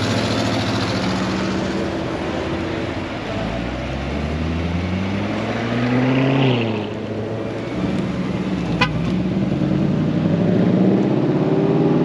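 Car engine accelerating: its pitch climbs for a few seconds, drops back about six and a half seconds in, then climbs again, as with a gear change.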